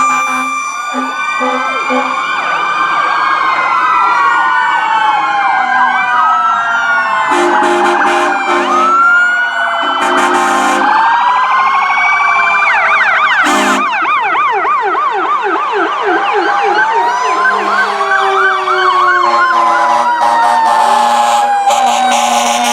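Several emergency-vehicle sirens sounding at once, wails rising and falling over each other with a fast yelp running for a few seconds in the middle, and short bursts of air horn. Fire trucks passing in a lights-and-sirens parade.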